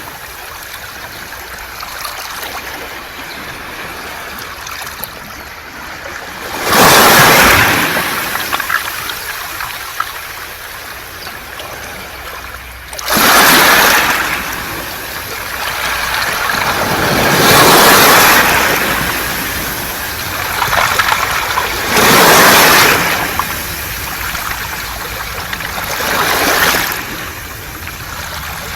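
Sea waves surging onto a beach of smooth round pebbles (mongdol), five swells breaking about every four to six seconds, with the water's wash and the pebbles' rolling hiss between them.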